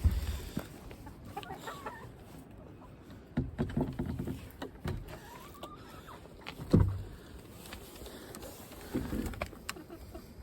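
Chickens clucking, with scattered knocks and a heavier thump about two-thirds of the way through.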